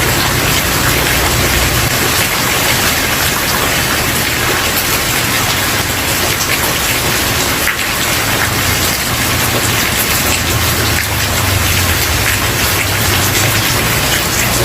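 Steady rain falling on a wooden porch: a dense, even hiss with individual drops tapping through it, over a low rumble that comes and goes.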